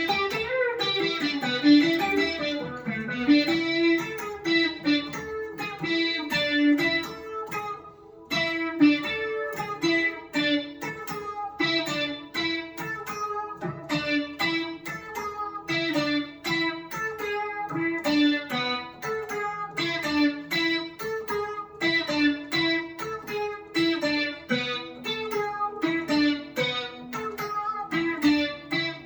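Electric guitar played through a Boss SY-200 guitar synthesizer pedal on its "Brassy Lead" preset: a fast run of synth lead notes with a brass-like tone, with a brief break about eight seconds in.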